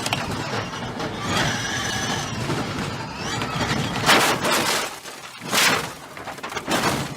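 Race car crash: engine and track noise, then two loud crunching impacts about four seconds and five and a half seconds in.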